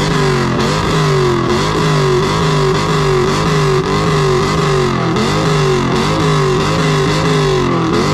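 A performance car's engine held at high revs on a two-step launch limiter, its pitch bouncing up and down in an even pattern about twice a second.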